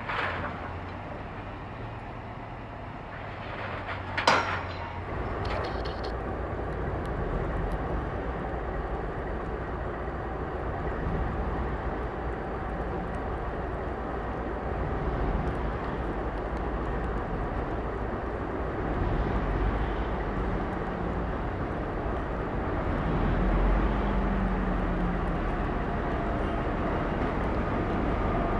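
A train running with a steady low rumble and a faint steady whine. A single sharp bang about four seconds in is the loudest moment.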